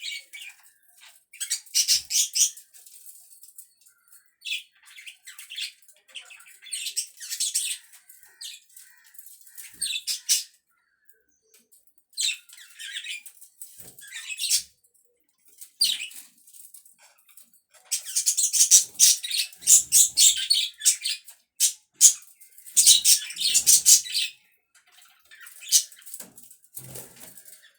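Pet budgerigars chirping and chattering in bouts of rapid warbling, busiest about two thirds of the way in, with short pauses between.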